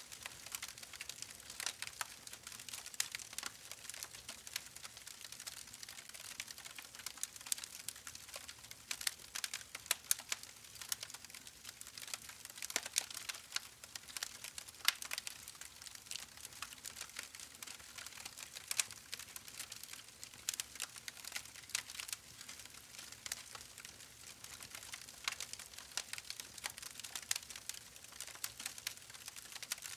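Wood fire burning in a fireplace, crackling with many small irregular pops and snaps over a soft hiss.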